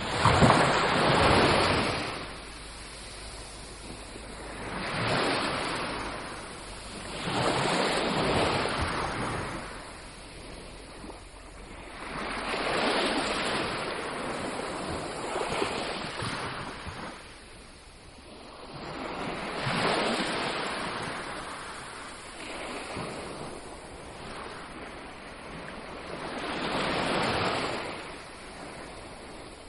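Ocean waves breaking on a shore, each surge of surf swelling and washing back about every three to five seconds.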